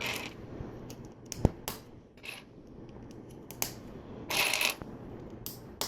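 Plastic LEGO pieces clicking and clattering as they are handled and pressed together, with one sharper click about one and a half seconds in and a brief rustle around four and a half seconds.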